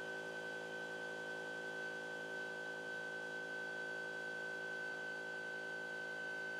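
CNC drawing machine's stepper motors giving a steady electrical whine, a high tone over a low hum, without breaks.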